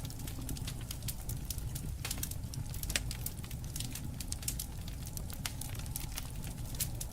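Wood campfire crackling, with dense irregular snaps and pops over a low, steady rumble of the burning fire.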